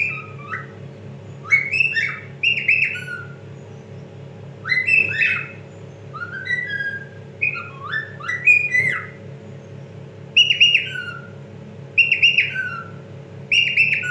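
Male cockatiel singing: repeated phrases of short whistled notes that swoop up and down, with short pauses between phrases, a song meant to catch another cockatiel's attention. A steady low hum runs underneath.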